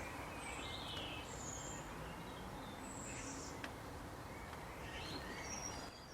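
Faint outdoor ambience with small birds giving short, high chirps scattered throughout, and a single faint click about three and a half seconds in.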